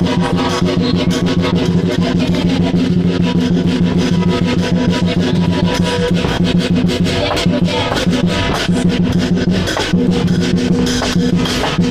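Chinese lion dance percussion: a drum beaten fast with cymbals clashing in a dense, unbroken rhythm.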